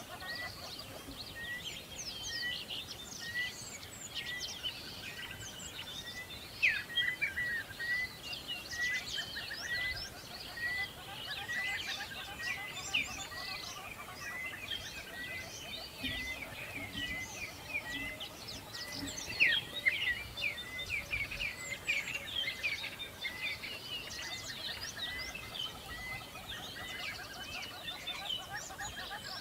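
A chorus of birds chirping and twittering together, with one short high note repeating about once a second and a few louder sharp calls standing out.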